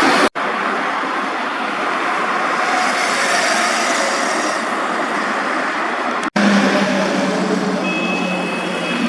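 Steady road-vehicle traffic noise without a clear engine note, broken by two abrupt cuts about a third of a second and six seconds in.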